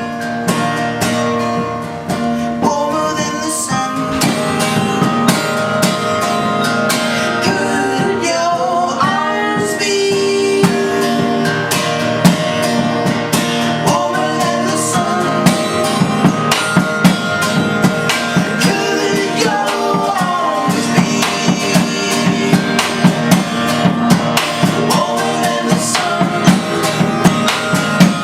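Live indie band performing a song: guitar with drum kit keeping a steady beat, and some singing.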